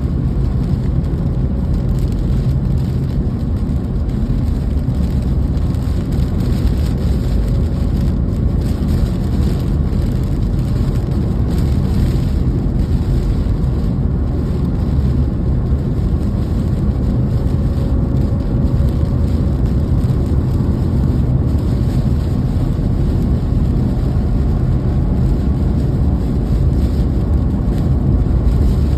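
Steady rain heard over a constant, loud low rumble.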